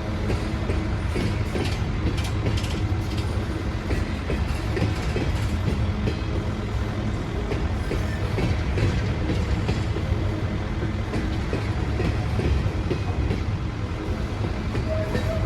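Train rolling along the track: a steady low rumble with wheels clicking over rail joints.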